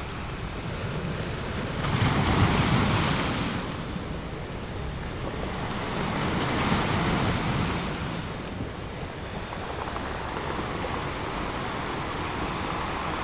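Ocean surf: a steady rush of waves, with two waves surging louder, one about two seconds in and another about six seconds in.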